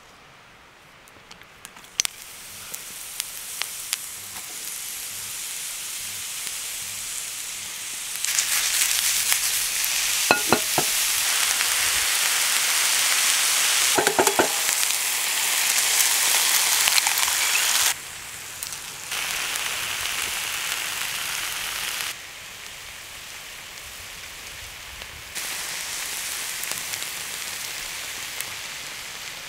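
Butter and then chanterelle mushrooms sizzling as they fry in a hot cast-iron frying pan. The sizzle grows over the first several seconds and then changes level abruptly a few times.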